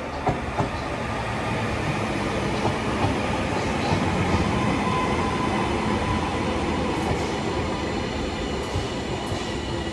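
Class 331 electric multiple unit running into the platform: wheel and rail noise with a few clicks in the first second and a faint thin whine, swelling to its loudest about four seconds in and then easing as the train slows.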